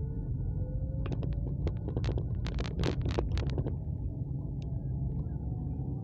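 Steady low rumble of a moving vehicle with wind on the microphone, the engine note rising slowly in the first couple of seconds. A quick series of sharp clicks and knocks comes in the middle.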